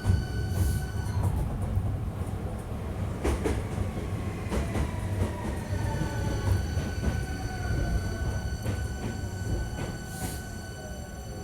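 Hankyu 1300 series electric train running and slowing, with a low rumble of wheels on rail, a few knocks, and the inverter and traction motor whine sliding steadily downward in pitch as it brakes to a stop.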